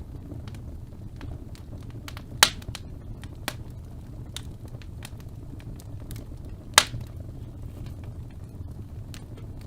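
Wood fire burning in a fireplace: a steady low rumble of flame with scattered small crackles, and two sharp pops of burning wood, about two and a half seconds in and again near seven seconds.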